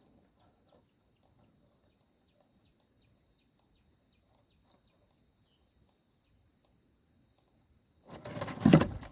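Steady high-pitched chirring of crickets or other insects, with faint scattered ticks and scratches. About eight seconds in, a sudden loud burst of noise breaks in and carries on to the end.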